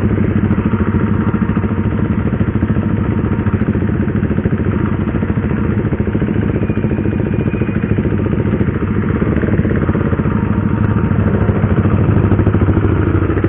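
Motorcycle engine running steadily at low revs, an even rapid pulse with no revving.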